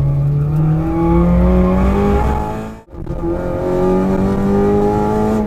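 Honda Civic Type R FN2's 2.0-litre four-cylinder engine pulling hard on track, heard from inside the cabin, its pitch climbing steadily. About three seconds in the sound drops out briefly, then the engine picks up and climbs in pitch again.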